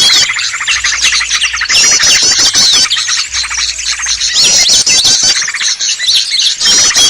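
A noisy crowd of small songbirds calling at once: dense, overlapping rapid chirps, trills and short whistled glides with no break. It is a lure recording meant to draw in small wild birds.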